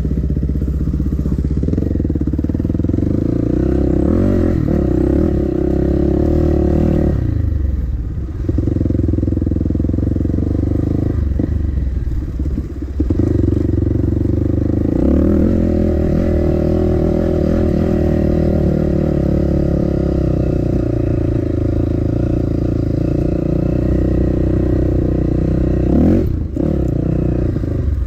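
Dirt bike engine running on a trail ride, heard close up from the bike itself, with the throttle rolling off and back on a few times so the engine note briefly drops and picks up again.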